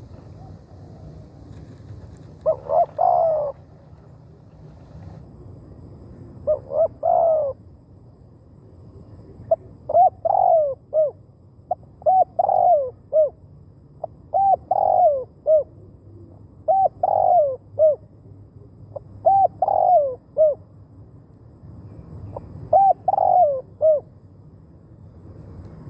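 Spotted dove cooing: a short multi-note coo phrase repeated about eight times, every two to three seconds, starting about two and a half seconds in.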